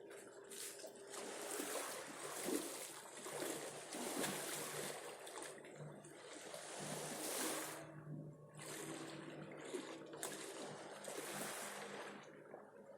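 Sea water splashing and washing in small waves, swelling and falling every second or two. A faint steady low hum lies underneath.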